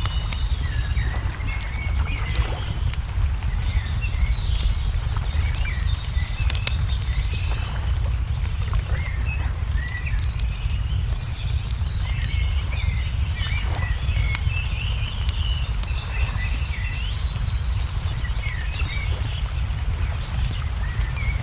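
Small birds chirping and trilling over a steady low rumble, with sharp crackles of a wood fire scattered throughout.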